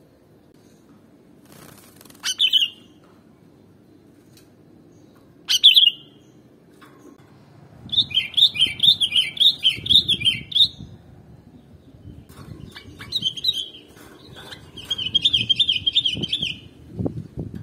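Sooty-headed bulbul (kutilang) calling: two short sharp notes, then longer bursts of quick, up-and-down chattering phrases, over a low background noise.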